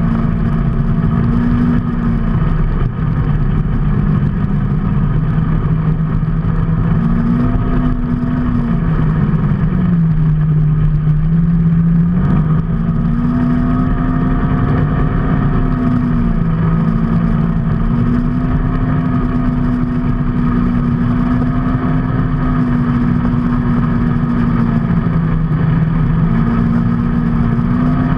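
Vehicle engine running while on the move, its pitch holding steady for a few seconds at a time and then stepping or gliding up and down as the engine speed changes, over a constant rush of road and wind noise.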